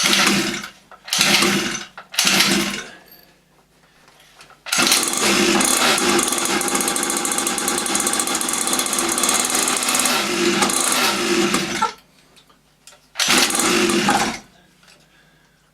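50cc two-stroke mini dirt bike engine being pull-started: three quick pulls on the starter cord, then the engine catches and runs for about seven seconds before it dies, followed by one more pull. The idle screw has just been adjusted and the engine will not yet keep running.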